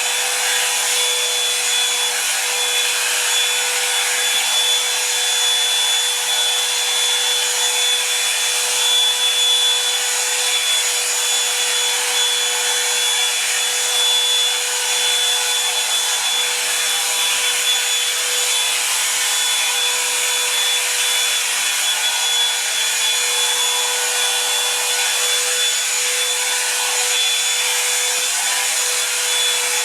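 Revlon One-Step hot-air dryer brush running steadily: a constant rush of air over a motor hum with a steady mid whine and a thin high whine.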